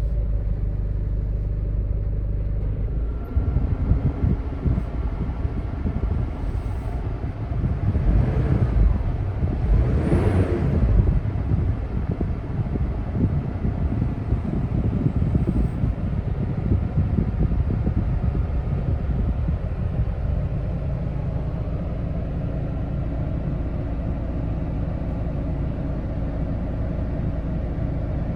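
Nissan Caravan van's engine running, revved up around ten seconds in and then settling back to a steady idle.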